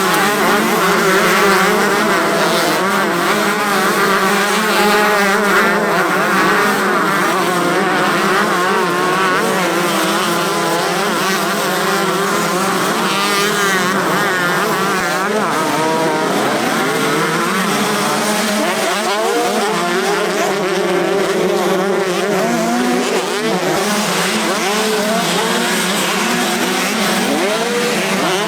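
Several 125 cc two-stroke motocross bikes racing past, their engines revving up and down over one another as the riders work the throttle.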